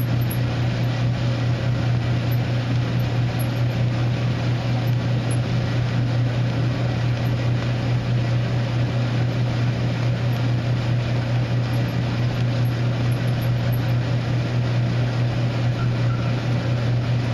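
Maytag electric dryer running, its drum turning with a steady low hum and an evenly pulsing squeak. The squeak gets louder with a heavy load; the owner suspects the drum's rear support roller bearings, and another guess is the motor bearing.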